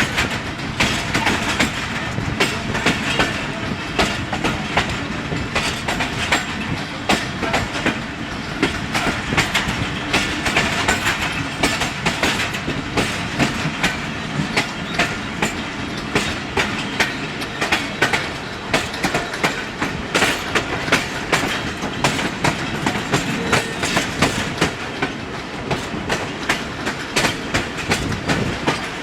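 Passenger train of Pakistan Railways rolling past on departure, its wheels clacking over the rail joints in a steady stream of sharp clicks over continuous running noise.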